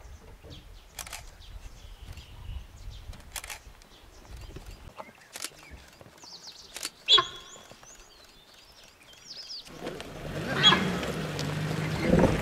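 Outdoor ambience with short bird calls and a few sharp clicks; one loud call with several stacked tones comes about seven seconds in. From about ten seconds a louder rough rustling noise takes over and continues.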